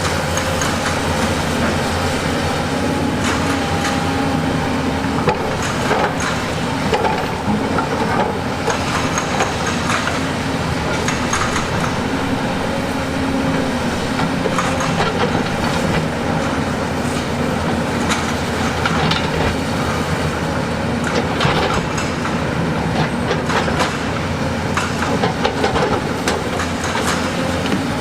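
Heavy construction machinery working: a diesel engine runs steadily under many irregular metallic clanks and knocks, like steel tracks and a bucket working against rock.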